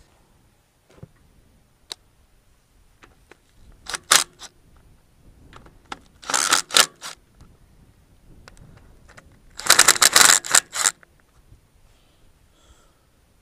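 Milwaukee cordless impact wrench hammering in three short bursts, about four, six and a half, and ten seconds in, the last the longest. It is working bolts loose on a vacuum tanker's pump.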